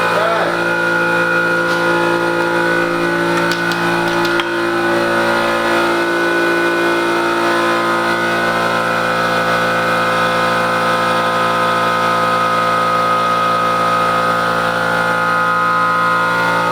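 A motor or engine running steadily at a constant speed, giving an even, unchanging drone with a clear hum.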